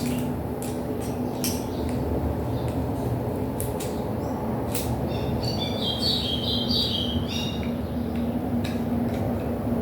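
A small bird chirping a quick run of short, high notes for about two seconds midway, over a steady low rumble. Scattered small clicks and taps come from handling parts.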